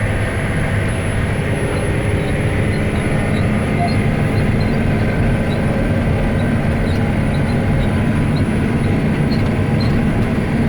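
John Deere 9530 four-wheel-drive tractor's six-cylinder diesel running steadily under load while pulling a high-speed disc through the field.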